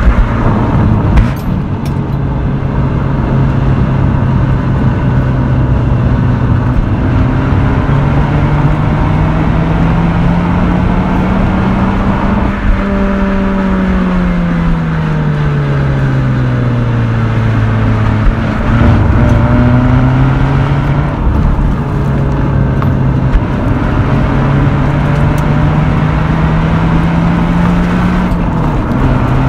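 Mazda RX-8's naturally aspirated twin-rotor Renesis rotary engine and exhaust, driving under moderate revs over steady road and tyre noise. The note climbs slowly for about twelve seconds and falls away for a few seconds as the revs drop. It then climbs again and drops sharply near the end.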